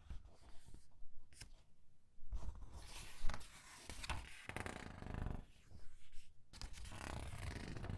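Pages of a comic book being turned one after another, the thin paper rustling and crinkling as each page is squeezed. There is a louder sharp crackle about three seconds in.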